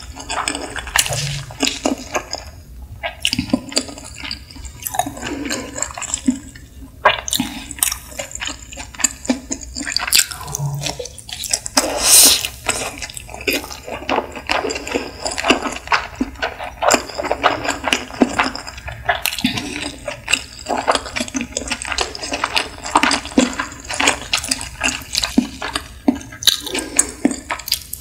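Close-miked chewing of nigiri sushi: a steady run of small wet mouth clicks and smacks, with a brief louder rush about twelve seconds in.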